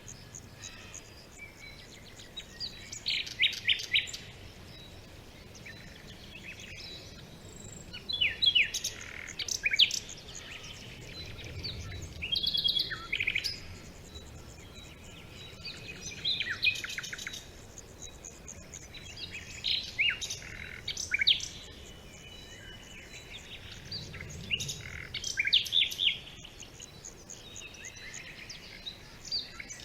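Several wild birds chirping and singing, short rapid trills and chirps in clusters every few seconds, over a faint low background hum.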